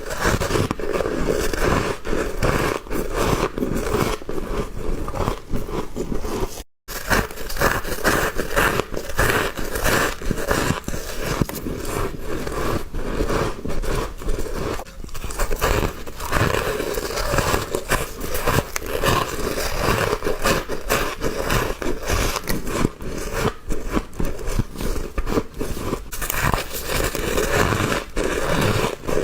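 Frost ice being bitten and chewed close to the microphone: a dense, continuous run of crisp crunches, broken by a momentary cut to silence about seven seconds in.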